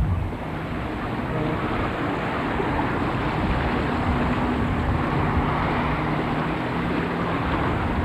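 A motor running steadily with wind rushing over the microphone.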